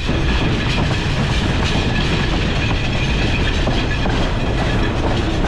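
Sri Lankan Railways passenger train running, heard from onboard: a steady, dense rumble and rattle of the wheels on the rails and the carriage.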